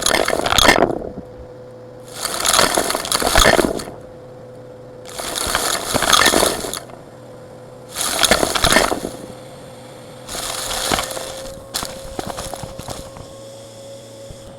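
Vacuum cleaner sucking up small rocks and gravel, loud rattling crunches in about five passes a couple of seconds apart over the machine's steady hum, then a few scattered clicks of stones near the end.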